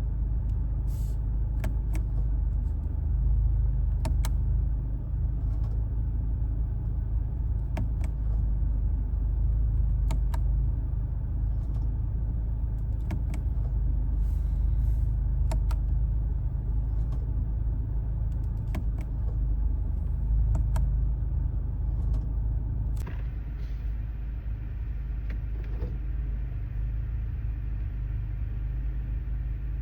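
Steady road and drivetrain rumble inside the cabin of a moving 2024 Mercedes-AMG C43 estate, with sharp clicks and knocks at irregular intervals. The owner traces the rear noise to the reversing camera cover deploying and retracting as speed changes. Near the end the rumble eases a little and the clicks thin out.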